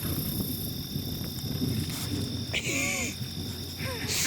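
Steady chorus of insects holding two unbroken high-pitched tones over a constant low rumbling background. A short voice-like call cuts in about two-thirds of the way through, and another near the end.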